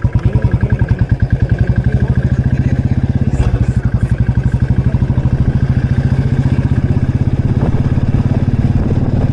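Royal Enfield Classic 350's single-cylinder engine running under way, its exhaust beating in an even, rapid rhythm that quickens slightly about two seconds in.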